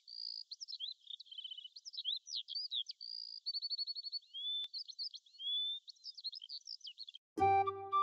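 Songbird singing a rapid, varied string of high chirps, quick trills and short rising whistles. Near the end it stops and music with sustained flute-like notes begins.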